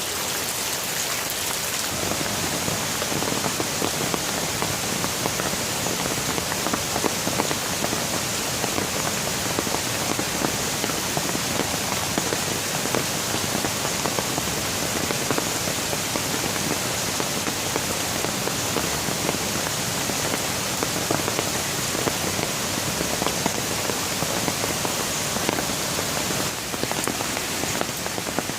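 Steady rain, a continuous hiss of falling water thick with the ticks of individual drops hitting surfaces.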